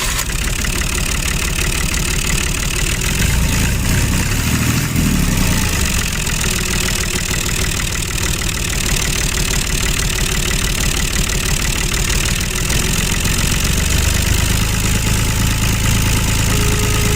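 The small engine of a model mini tractor running steadily with a fast, even rattle.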